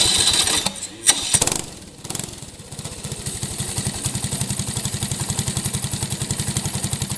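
Small engine of a supermileage car, noisy with a couple of sharp clicks for the first second or so, then settling from about two seconds in into a steady, rapid, even firing beat.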